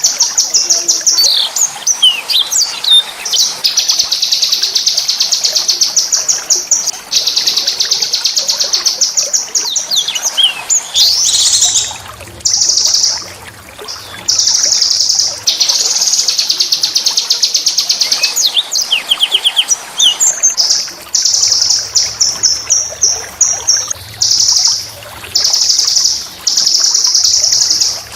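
A small songbird singing: long, rapid, high-pitched trills and rolling phrases, each lasting one to three seconds, separated by short gaps and quick chirps.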